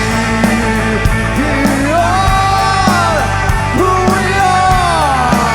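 Rock band playing live: drums and bass keep a steady beat under a long melodic line that holds and slides in pitch.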